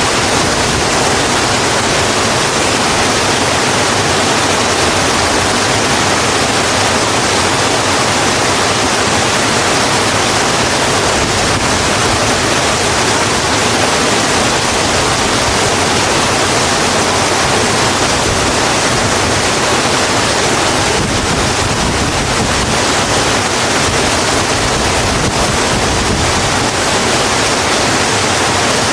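Steady, heavy rainfall: a dense, even hiss with no breaks or single drops standing out.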